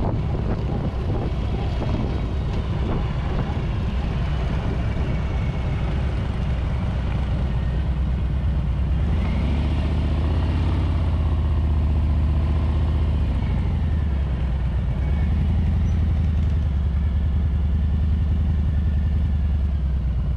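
A Harley-Davidson Street Bob's Milwaukee-Eight V-twin engine running steadily at road speed, with wind rush. The low engine note strengthens a little about halfway through.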